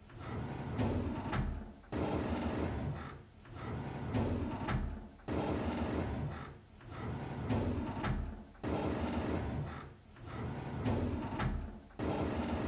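A drawer sliding open on its runners, over and over, about once every three and a half seconds, with a short knock in each pass.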